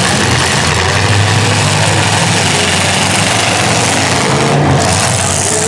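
Engines of full-size demolition derby cars running in the arena, loud and steady.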